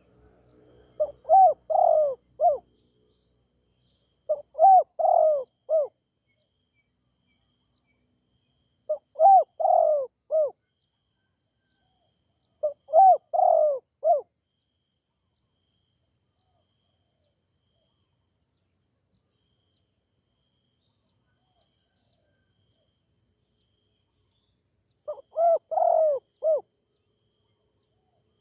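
Spotted dove cooing: five phrases of a few short, rounded coos each. The first four come about every four seconds, then there is a ten-second pause before a last phrase near the end.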